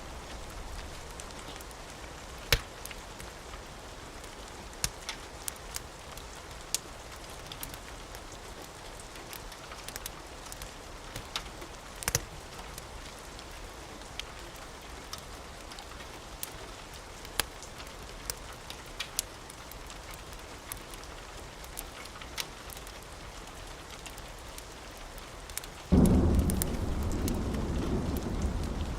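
Steady rain with scattered sharp pops and crackles of a wood fire. About 26 seconds in, a loud low rumble of thunder starts suddenly and carries on.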